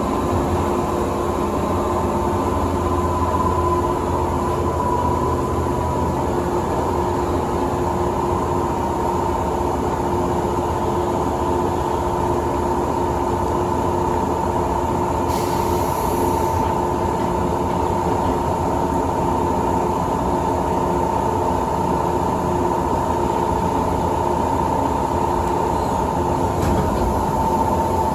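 JR 117 series electric train running at steady speed, heard from inside the carriage: a constant running rumble with a steady whine. A brief hiss comes about halfway through.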